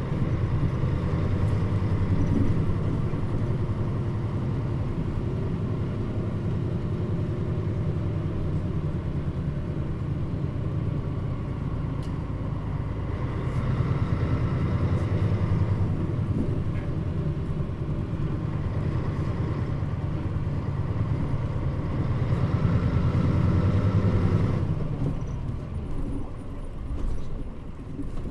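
Mitsubishi Fuso Aero Star city bus's diesel engine running under way, pulling harder in a few stretches with a rise in level and pitch, then easing off about five-sixths of the way through.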